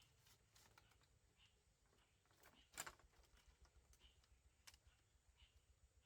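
Near silence with faint scattered clicks and light knocks, the sharpest one just under three seconds in and another near the end.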